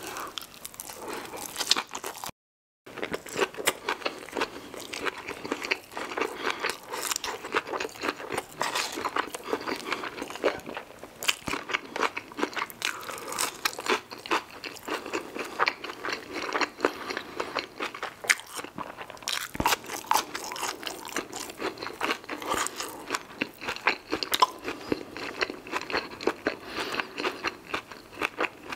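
Chewing and crunching of crispy fried food, a steady run of crackly bites and mouth sounds, with a sudden total drop-out for about half a second near the start.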